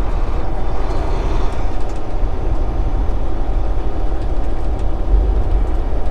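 Steady low rumble of a semi truck's diesel engine and road noise heard from inside the cab while driving.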